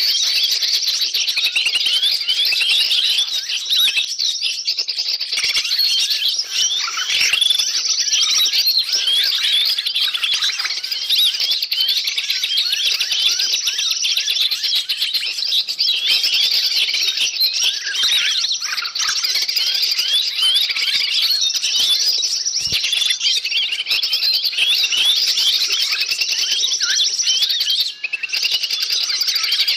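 Dense, unbroken chorus of many small songbirds chirping and scolding at once, rapid high chirps overlapping without pause, with a brief lull near the end. It is a noisy bird-lure recording used to draw wild forest birds in.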